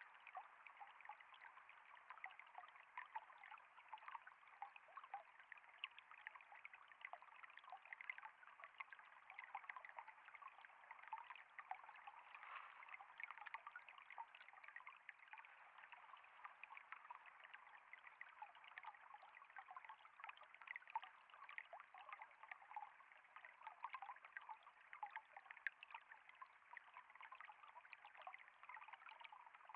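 Faint, steady flowing and trickling water, with many small, quick splashes running through it.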